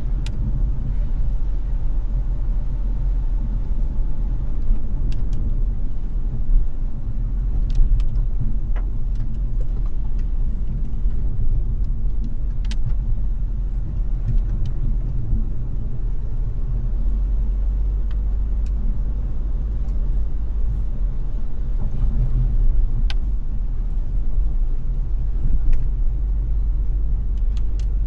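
Car driving in the rain: a steady low rumble of road and engine noise, with occasional sharp ticks scattered through it.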